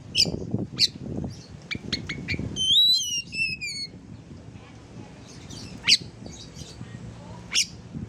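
Oriental magpie-robin (kacer) calling: sharp single chirps at intervals, with a short phrase of gliding whistled notes about three seconds in.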